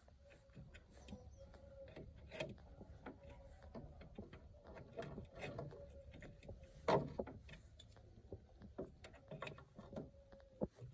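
Scattered light clicks and knocks of tools and small engine parts being handled, with a sharper knock about seven seconds in, over a faint steady hum.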